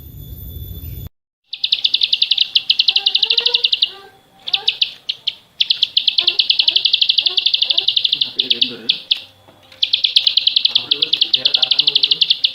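A small songbird's rapid, buzzy trill of about a dozen high notes a second, given in long runs with short breaks, over faint softer chirping. It is preceded by about a second of low hiss that cuts off.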